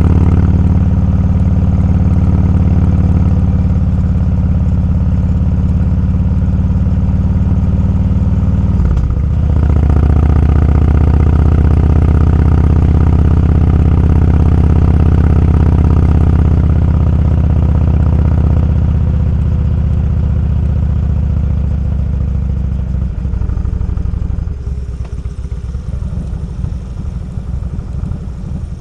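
Motorcycle engine running steadily under way, its note dipping briefly about nine seconds in and then picking up again. Near the end it eases off and gets quieter, the individual firing pulses becoming distinct.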